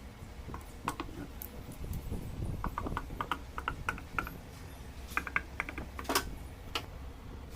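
Light metallic clicks and clinks of hand tools and engine parts being handled, coming in small irregular clusters, with one sharper clink about six seconds in, over a steady low hum.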